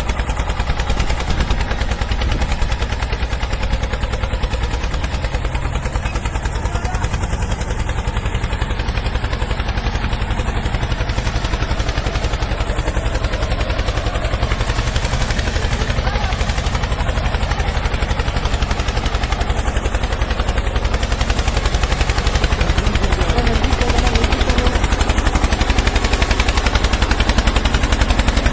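Remote-control toy vehicle running with a steady, fast mechanical rattle.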